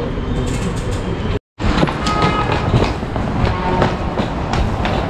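A rail train running on the track, a steady rumble with repeated knocks from the wheels; the sound cuts out for a moment about a second and a half in.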